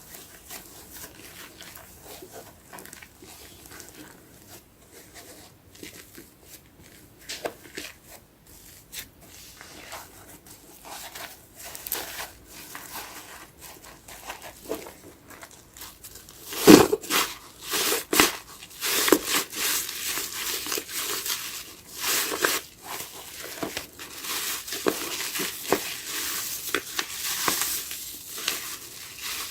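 Soapy sponge being squeezed and worked, its foam giving off irregular crackles and wet squishes that grow louder and busier about halfway through.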